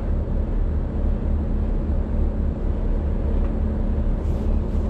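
Steady low engine rumble with a faint constant hum, no change in pitch or level.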